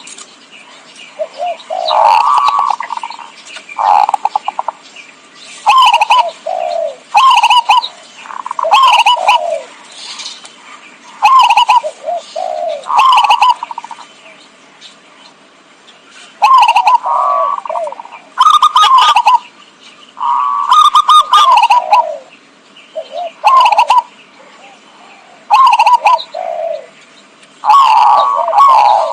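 Zebra dove (perkutut) cooing: a loud string of short, rolling, warbled coo phrases, repeated every second or two with brief pauses, as used for luring and trapping perkutut.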